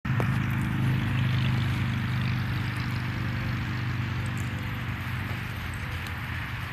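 Steady low engine drone with a layer of hiss, easing off slightly over the few seconds.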